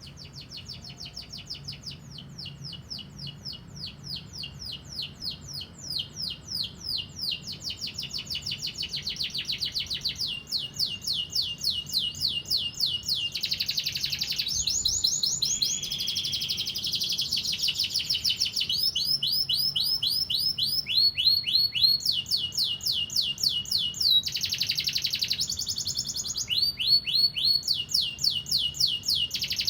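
Domestic canary singing a long, unbroken song: fast trills of repeated high notes, each run changing to a new one every second or two, with a few harsher rolled phrases. The song grows louder over the first ten seconds or so.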